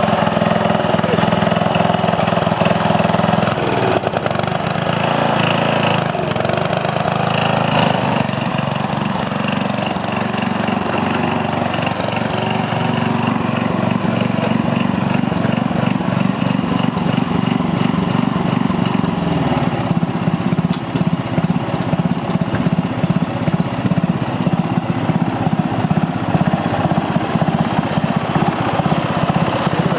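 Sears Companion riding lawn tractor's engine running steadily; from about twenty seconds in its sound turns into a slower, even throb.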